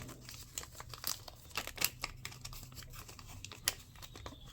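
Crinkling, rustling and irregular light clicks of small parts being handled while a new rubber bowl gasket is fitted to a small engine's carburettor, over a faint low hum that stops about three seconds in.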